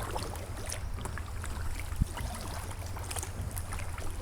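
Kayak riding a fast, flood-swollen river: water splashing and sloshing against the hull in many small irregular splashes over a steady low rumble, with one sharp knock about two seconds in.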